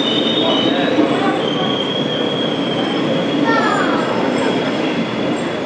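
A train running through a station, loud, with its wheels squealing on the rails in a steady high-pitched screech over the rumble of the cars.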